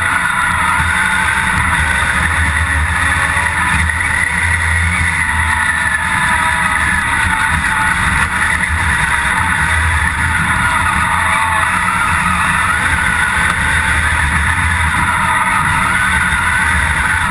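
Engine of an off-road competition 4x4 running hard and fairly steadily under load, heard loud from inside its caged cabin, with little change in pitch.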